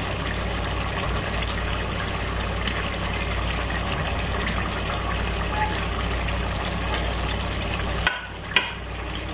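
Chicken karahi sizzling steadily in its oil in the pan, a fine crackling fry over a low hum. Near the end the sound dips suddenly, and there is a single click.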